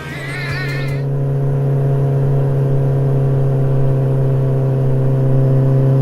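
Motorcycle engine sound effect droning steadily at a constant pitch, swelling in the first second or two and then holding, with a brief warbling high tone at the start.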